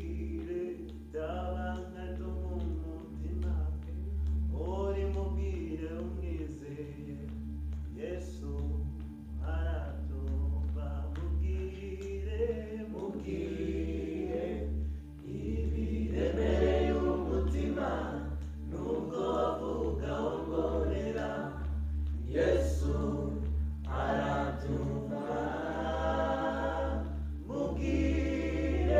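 A group of voices singing a worship song together, growing fuller about halfway through, over a steady low hum.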